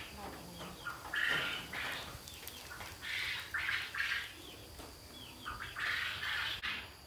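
Birds calling: about half a dozen short, noisy calls, each roughly half a second long, with small quick chirps in between.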